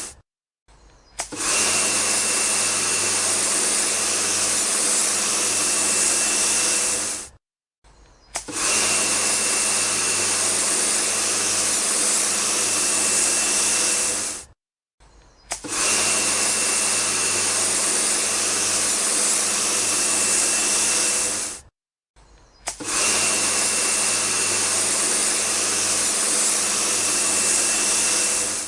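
Steady whirring and hissing of a small motor, in four stretches of about six seconds each, separated by brief silences.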